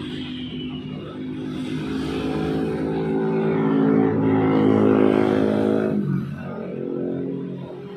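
A motor vehicle's engine passing by: the engine note grows steadily louder, then drops in pitch and fades about six seconds in.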